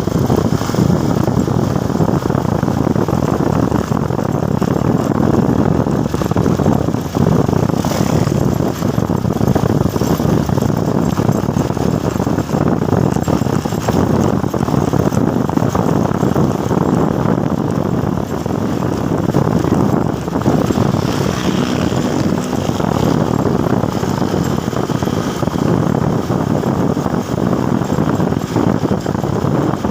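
Motorcycle on the move, its engine running under steady, unbroken road and wind noise.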